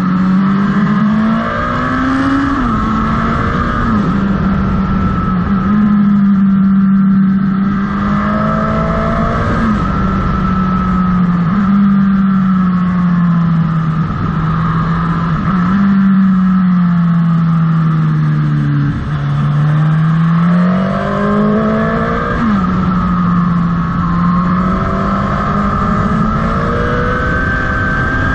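Motorcycle engine running under way, its note rising and falling with the throttle through bends and jumping abruptly at a few gear changes, over a steady rush of wind noise.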